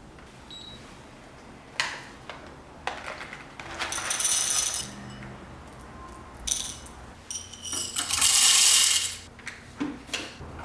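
Small hard objects clinking and rattling: a couple of sharp clicks, then two jingling, rattling spells of about a second each, the second one the loudest.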